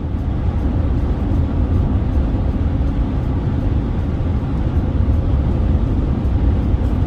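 Steady low rumble of a car driving along a country road: engine and tyre noise with no change in pace.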